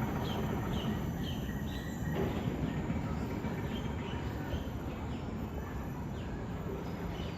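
Outdoor ambience: birds chirping in short, high repeated notes, about twice a second at first and then fainter, over a steady low background noise.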